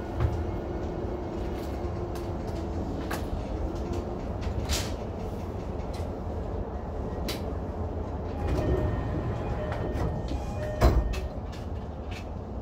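Interior sound of a Keihin-Tohoku Line electric commuter train, taken from just behind the driver's cab: a steady low rumble with a faint hum in the first few seconds. Scattered sharp clicks and a louder knock come about 11 seconds in.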